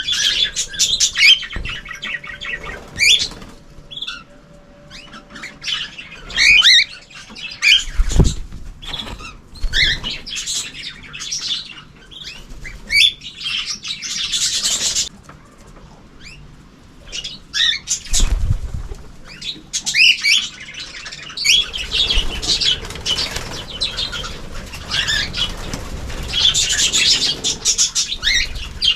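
Small cage birds in an aviary, budgies, canaries and cockatiels among them, chirping and chattering throughout, with flurries of wing flapping. Two dull low bumps break in, well apart.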